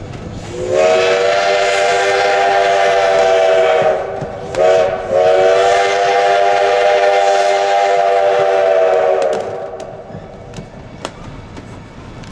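Steam locomotive's multi-tone whistle blowing a long blast, a short toot and another long blast. Afterwards the train's running and rail clicks carry on more quietly.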